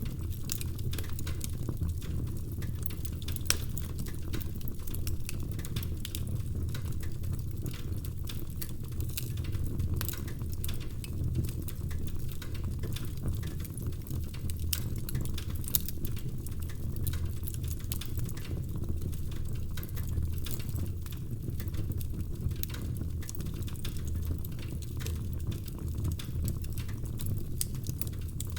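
Wood fire crackling in a fireplace: frequent irregular sharp pops and snaps from the burning logs over a steady low rumble of the flames.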